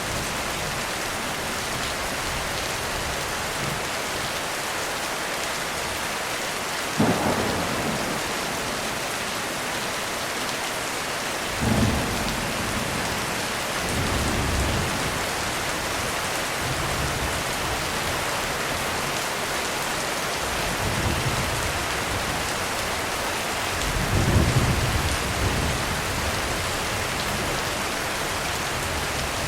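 Heavy rain falling steadily on a roof, with repeated rumbles of thunder. A sharp clap comes about seven seconds in, lower rolls follow, and the loudest rumble comes a few seconds before the end.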